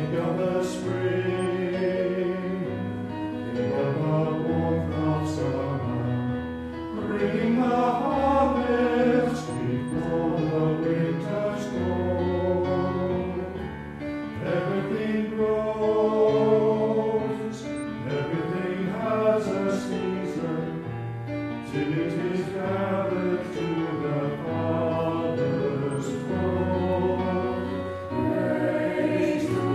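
A choir singing a hymn with a keyboard accompaniment, sustained chords that move in phrases.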